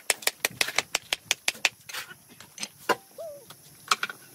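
Rapid hammer taps on natural stone, about five a second, stopping about two seconds in, followed by a few scattered knocks.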